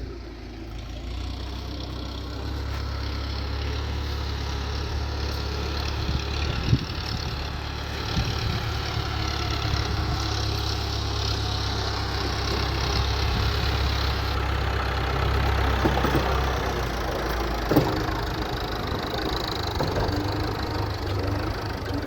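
Tractor engine running steadily under a broad rushing hiss while the water tanker is being filled, with a couple of sharp knocks.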